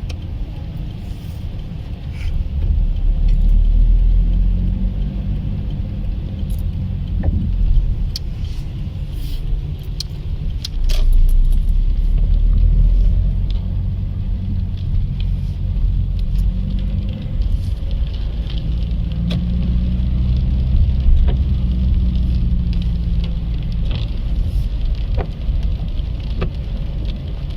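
Car engine and tyre rumble heard from inside the moving car, the engine rising in pitch and loudness three times as it accelerates, with scattered light clicks.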